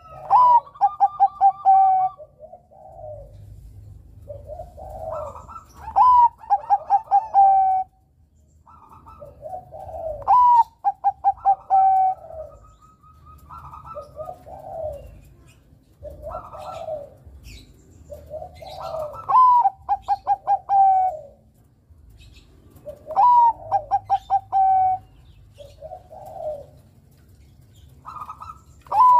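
Bangkok-strain zebra dove (perkutut) singing its cooing song, about six phrases four to five seconds apart. Each phrase is a rising note followed by a quick run of short coos, with softer, lower coos in between.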